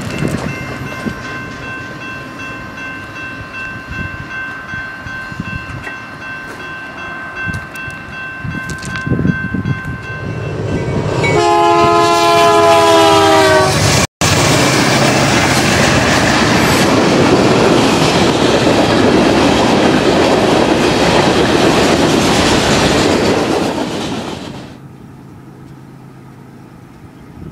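Trains passing a grade crossing: rail cars rumbling and clacking over the rails with a thin steady squeal, then a diesel locomotive's multi-note horn blowing for about three seconds, its pitch dropping as it passes. Then a loud rush of diesel locomotives and wheels going by close, which falls away suddenly near the end to a quiet background.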